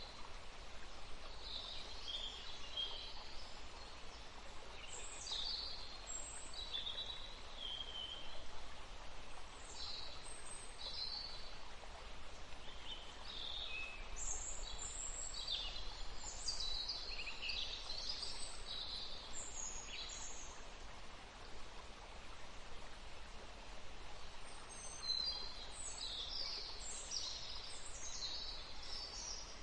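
Songbirds singing in short, chirping phrases over the steady rush of a forest stream. The birdsong pauses for a few seconds after the middle, then resumes.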